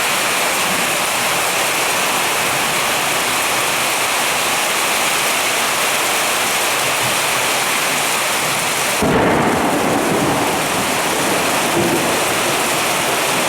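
Heavy rain pouring steadily as a dense hiss; about nine seconds in, a deep rumble of thunder sets in and goes on to the end.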